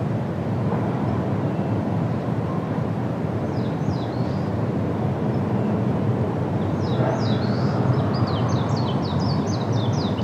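A small bird singing over a steady low rushing noise: a couple of high chirps about four seconds in, then a quick run of chirps, each sliding down in pitch, from about seven seconds on.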